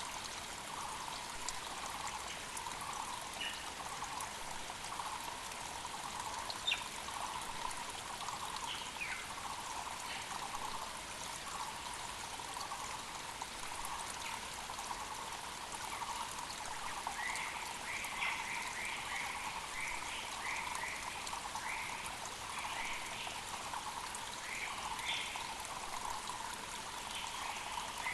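Mountain creek running steadily under a continuous run of low, evenly repeated notes from a Muller's barbet. Short higher chirps from other birds join in, more often in the second half.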